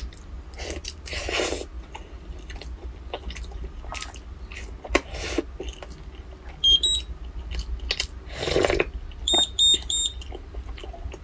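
Close-miked chewing of soft bread, with many small wet mouth clicks and two longer slurping sips from a mug. Short electronic beeps cut in: a quick pair about two-thirds of the way through and three identical beeps in a row near the end.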